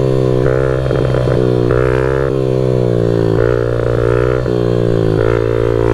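Honda CRF50 pit bike's small single-cylinder four-stroke engine running under the rider. The pitch rises and dips slightly every second or so with the throttle.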